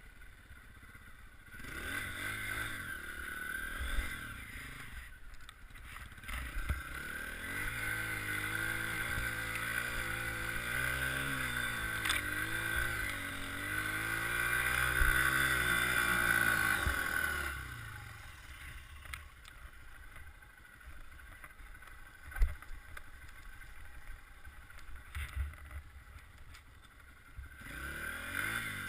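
Dirt bike engine revving hard, its pitch wavering up and down with the throttle for about fifteen seconds, then dropping away. A quieter stretch follows with a few sharp knocks, and the engine is heard again near the end.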